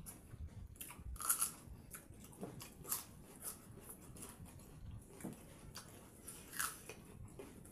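Close-up eating sounds: chewing with crisp crunching bites of raw radish and onion, eaten alongside wet rice by hand. Three louder crunches stand out: about a second in, at about three seconds, and near the end.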